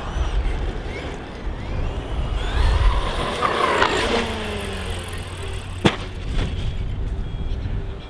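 Traxxas XRT 8S truggy's brushless electric motor whining, its pitch rising and falling as the throttle is worked, over wind buffeting the microphone. About six seconds in there is a sharp knock. Near the end the radio transmitter starts a repeating beeping, its low-voltage alarm, set off as a battery connector came loose.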